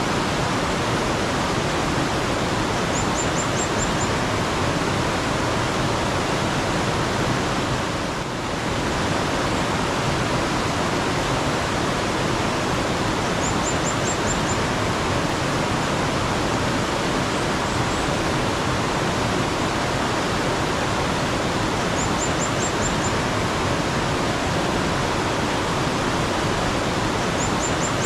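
Steady flowing water of a mountain stream. A small bird calls four times, each a quick run of about five high notes, roughly every nine seconds.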